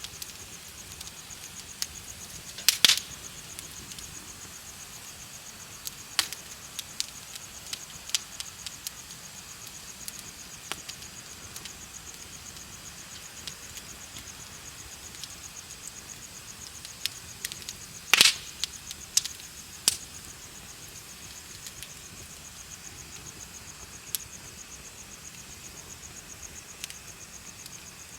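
A wood bonfire crackling, with scattered sharp pops, the two loudest about three seconds and eighteen seconds in, over a steady rapid high-pitched chirping of insects.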